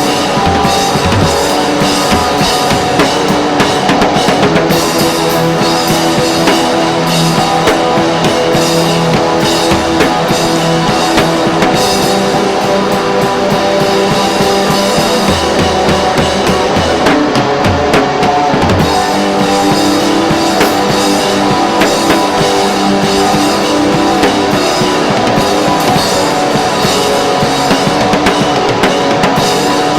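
Rock music with a full drum kit and electric guitar, playing loud and steady.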